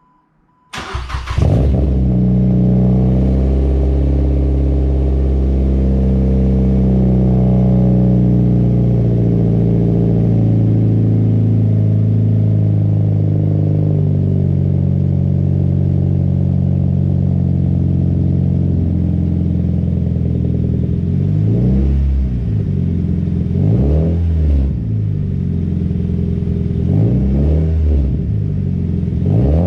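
Mazda NC Roadster's inline-four starts up through a BE FREE full straight-through exhaust, catching about a second in after brief cranking. It then idles steadily. In the last third it is revved in several short throttle blips that rise and fall.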